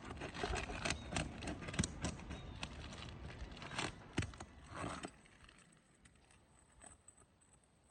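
Scraping, crackling and clicking of asphalt roof shingles being pried and worked loose by hand. The sound is dense for about five seconds, then drops to a few faint clicks.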